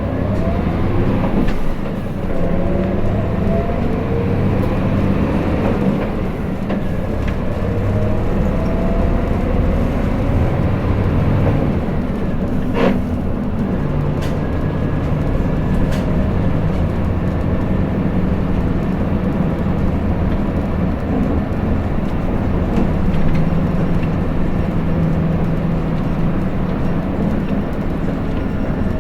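Hino Blue Ribbon City KL-HU2PMEA city bus heard from inside the cabin, its diesel engine rising in pitch as the bus pulls away from a stop, then running steadily. A single sharp click sounds about 13 seconds in.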